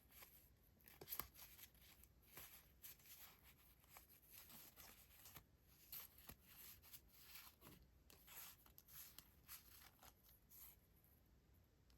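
Faint, crisp rustling of paper decoration items being handled, in many short brushes and shuffles that thin out near the end.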